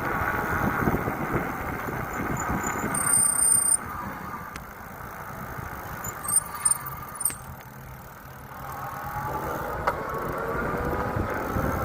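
Riding noise from a bike, with wind rumbling on the microphone and road noise, dropping off for a few seconds in the middle. Two brief high-pitched squeals come about three and six seconds in.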